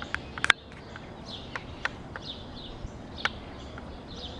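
Small birds chirping outdoors: short, scattered chirps over a faint steady background, with a sharp click about half a second in.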